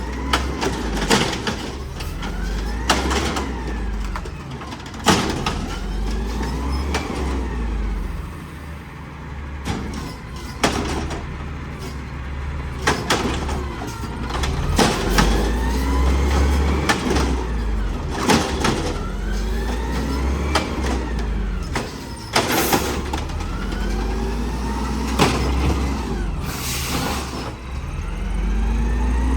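Garbage truck running with a steady low rumble, under repeated rising and falling whines. Frequent sharp knocks and bangs run through it.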